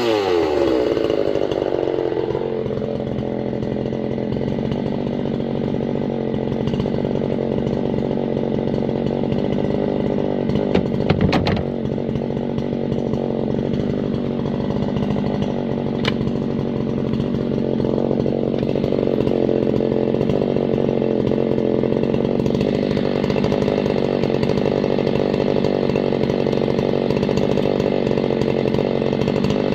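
Husqvarna 390 chainsaw's two-stroke engine held at full throttle while cutting through a Douglas fir log, its pitch settling and holding steady under load. A brief clatter about eleven seconds in, and the engine runs a little louder from about two-thirds of the way through.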